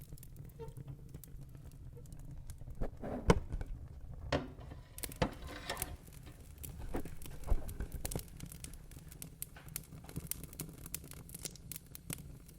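Wood fire in a fireplace crackling, with irregular sharp pops over a steady low rumble; the biggest pops come about three seconds in and again past the middle.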